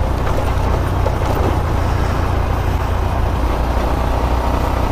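125cc motorcycle engine running steadily while under way, under a steady rush of noise.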